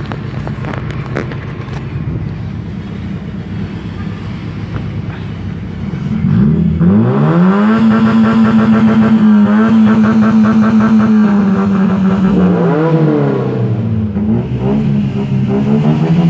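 Car engine with a loud aftermarket exhaust. It rumbles low for about six seconds, then is revved up hard and held at high revs for several seconds. It drops, is blipped once more and climbs again near the end.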